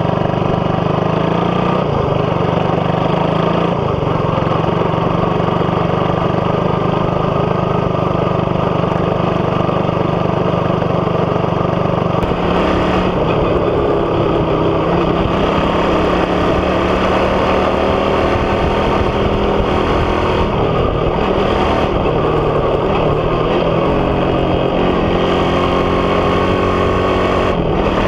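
Suzuki Raider 150's single-cylinder four-stroke engine running through an aftermarket big-elbow exhaust with the catalytic converter removed. The note is steady at first and turns more uneven about halfway through.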